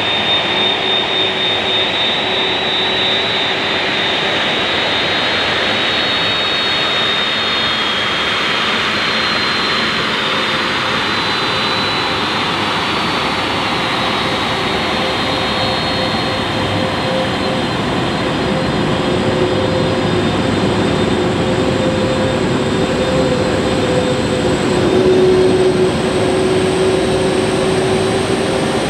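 Lockheed C-5M Super Galaxy's General Electric F138 turbofan jet engines running, a loud steady jet roar with whining tones. A high whine fades out around the middle, and a thinner, higher whine comes in and rises slightly in the second half, as the sound gets a little louder near the end.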